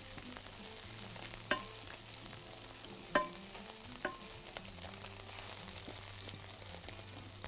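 Chicken skin frying in its own rendered fat in a pan, with a steady sizzle as the fat cooks out and the skin crisps. Three light clinks against the pan sound about one and a half, three and four seconds in.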